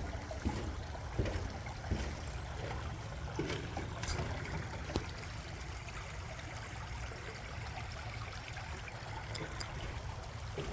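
Water trickling steadily, with footsteps knocking on a metal footbridge about once every half second to a second for the first five seconds, then only the water.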